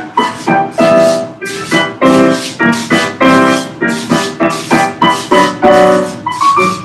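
Piano music for a ballet class, with chords and notes struck in a steady, even rhythm.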